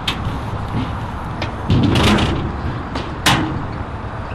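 Wheels rolling over skatepark concrete, with sharp clacks about two seconds in and a loud hard impact a little over three seconds in.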